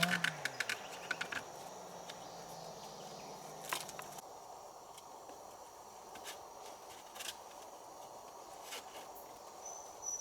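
Scattered light clicks and knocks, a cluster in the first second or so and single ones every second or two after, over a steady outdoor background with a faint high insect-like tone.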